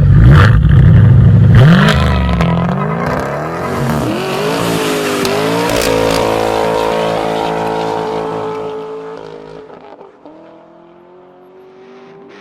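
2019 Dodge Hellcat's supercharged 6.2-litre Hemi V8 running loud through a Kinney's Tunnel Ram performance exhaust: it comes in suddenly, climbs in pitch as it accelerates, holds a steady note, then fades away from about eight seconds in.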